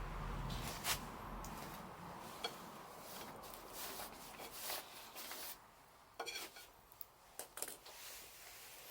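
Scattered light clinks and knocks of dishes and eating utensils being handled, with a soft background hiss fading in the first couple of seconds.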